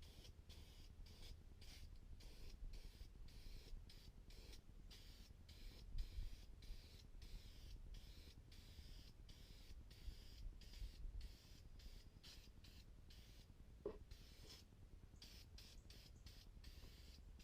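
Near silence: faint hiss and low rumble.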